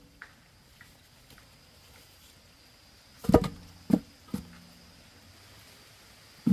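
A few sharp knocks: three close together about three seconds in, and one more near the end, each with a short low ring.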